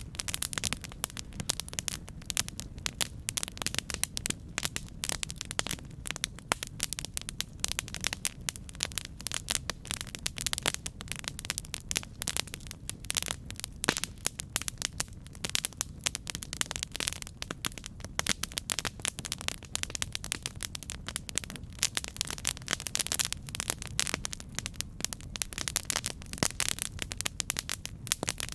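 Campfire burning with dense, irregular crackles and pops over a low, steady rumble of flame.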